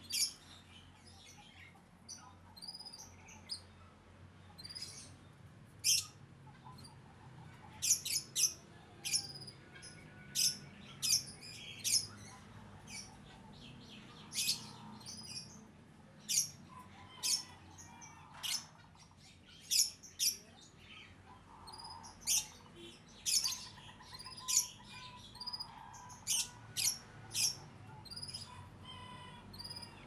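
Birds chirping: short, sharp, high chirps coming irregularly about once a second, some in quick clusters.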